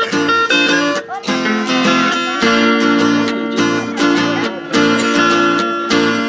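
Acoustic guitars strumming chords and picking single-note melody lines, the instrumental introduction to a caipira country song.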